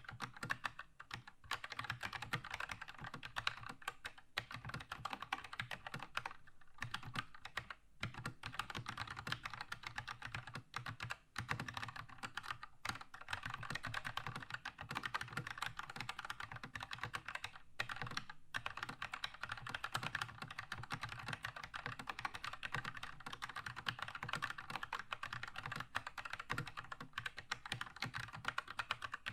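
Fast continuous typing on a Keychron K2 mechanical keyboard with linear red switches, a dense run of key clacks broken by brief pauses between bursts.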